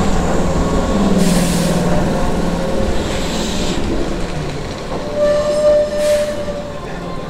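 Keihan electric commuter train at the platform: a steady mechanical hum, broken by short hissing bursts about one, three and six seconds in, and a brief high squeal about five seconds in.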